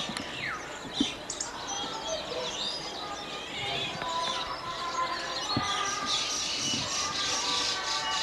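Many small birds chirping and twittering continuously, over background music with held tones.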